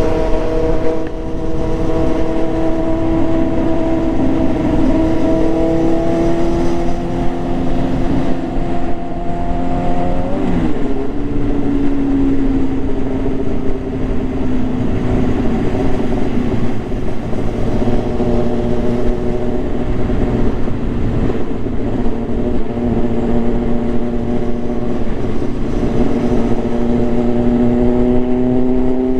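Motorcycle engine running under way, its pitch climbing slowly, dropping sharply at a gear change about ten seconds in, then holding steady and rising again near the end, with steady wind noise over it.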